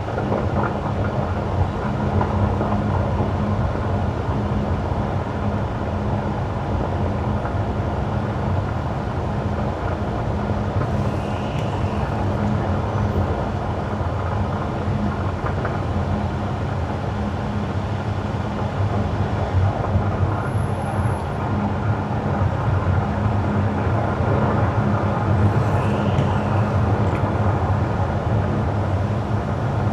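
Car driving on wet winter asphalt: steady tyre noise with a low hum from the car, even throughout.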